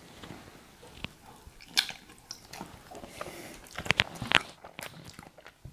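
Close-mouth eating sounds: wet chewing and lip smacks of a person eating buttery seafood boil, with a few sharper smacks about two seconds in and around four seconds.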